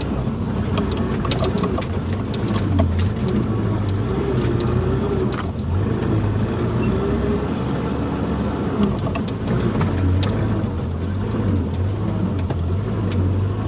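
Suzuki Jimny 4x4's engine running steadily at low speed, its pitch wavering up and down, with scattered sharp clicks and knocks over it.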